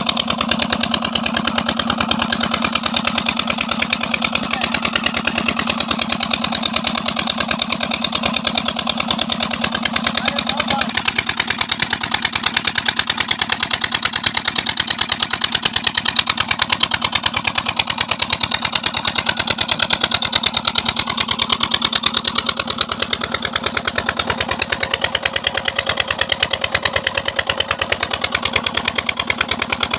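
Double-flywheel single-cylinder diesel pump engine running steadily, driving a borewell water pump, with an even rapid beat from its firing strokes. About eleven seconds in, the sound turns brighter and a little louder.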